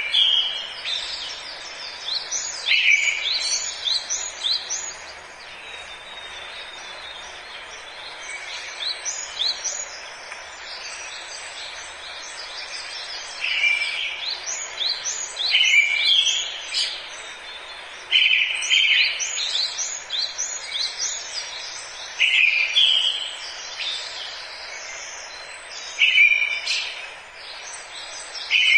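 Forest birds calling and singing over a steady hiss of background ambience: runs of quick, high chirps, with a short, louder, lower call repeating every few seconds.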